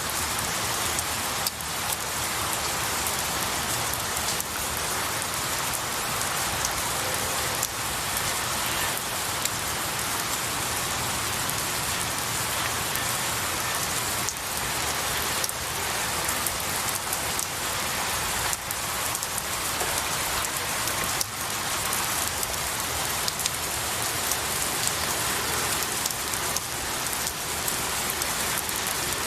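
Steady rain falling on pine needles and a tree, with many separate drops pattering through an even hiss.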